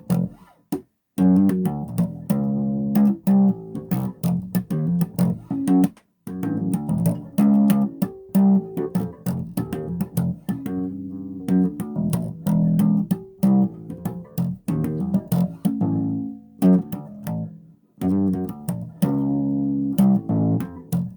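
Bass guitar played solo: a run of plucked notes and riffs, with short breaks about a second in, around six seconds and near eighteen seconds.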